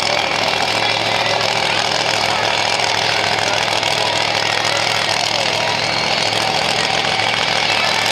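Monster truck engine running loud and steady, a dense rattling engine noise with a constant low hum.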